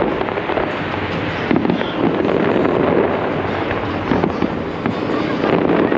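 Fireworks display going off in a dense, continuous barrage of bursts and crackle, with a few sharper bangs standing out.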